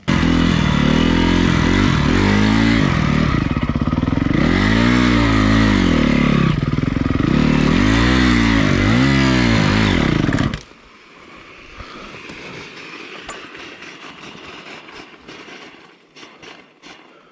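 Motorcycle engine revving up and dropping back several times, then cutting off abruptly about ten seconds in, leaving faint rustling noise with a few clicks.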